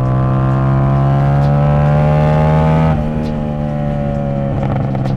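CFMoto 450SS parallel-twin engine through its aftermarket exhaust, pulling under load while being ridden, its pitch climbing slowly and then dropping about three seconds in as it shifts up a gear.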